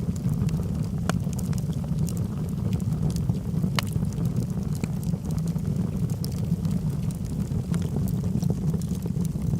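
Log fire burning in a fireplace: a steady low rumble of flames with scattered sharp crackles and pops from the burning wood, the loudest pop about four seconds in.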